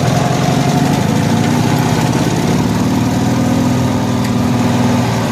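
Small engine of a 1974 Cushman Truckster utility vehicle running steadily at idle.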